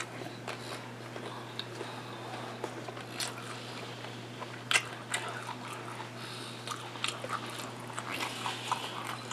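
A person chewing food with the mouth closed: a run of small wet mouth clicks and smacks, with a sharper click about five seconds in, over a steady low hum.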